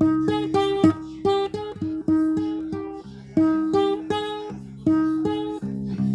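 Acoustic guitar playing a melody note by note, each plucked note ringing and fading, over sustained bass notes.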